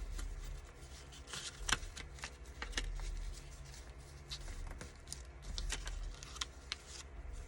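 Sheets of decorative paper being handled and shuffled on a work surface: irregular rustles and light taps and clicks, over a faint low hum.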